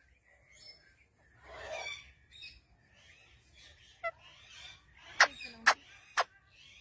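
Baby parrot giving a raspy, noisy call, then a softer stretch, then three sharp loud clicks or chirps about half a second apart near the end.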